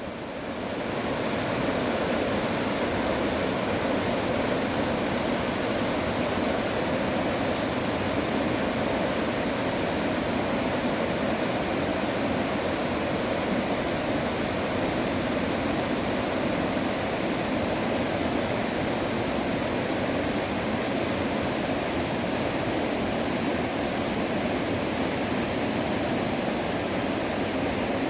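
Mountain stream water rushing steadily, fading in over the first second or two.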